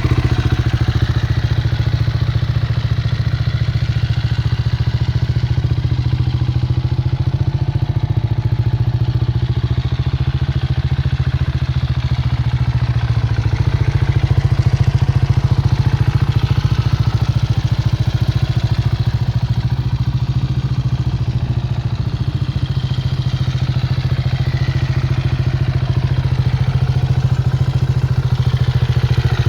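KTM 690 Duke R's single-cylinder engine running at a steady idle through an Akrapovic exhaust.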